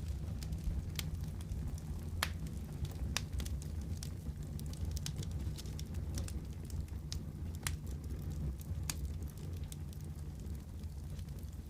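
Wood fire crackling in a fireplace: a steady low rumble of flames with sharp irregular pops and snaps, a few louder ones standing out.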